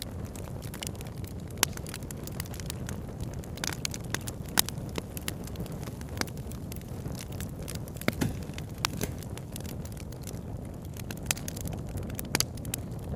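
Campfire crackling, with irregular sharp pops and snaps over a steady low rushing of river water. The loudest snap comes about four and a half seconds in.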